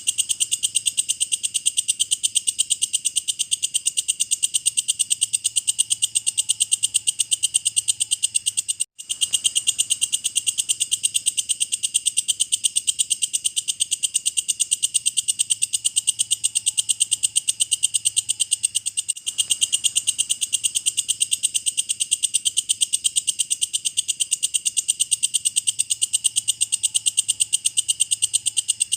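Walang kecek, a katydid, chirping in a steady train of fast, high-pitched clicking pulses, about ten a second, with a brief break about nine seconds in.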